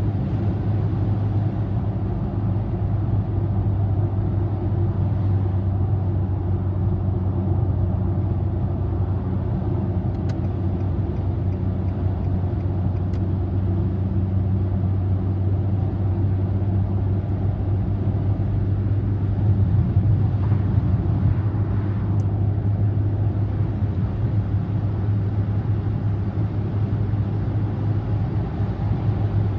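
A car cruising at expressway speed, heard from inside the cabin: a steady low drone of engine and tyre road noise.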